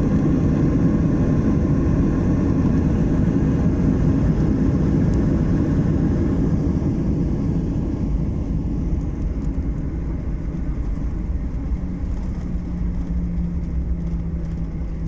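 Cabin noise of a Boeing 737-800 rolling out on the runway just after touchdown: a loud, broad engine and rolling rumble that gradually dies away as the aircraft slows. A steady low hum comes in near the end.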